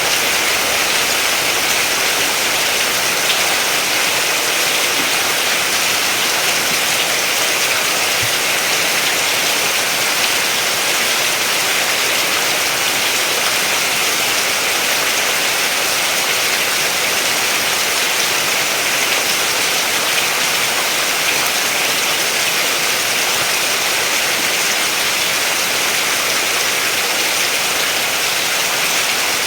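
Steady heavy rainfall, an even hiss of falling drops that holds at one level throughout.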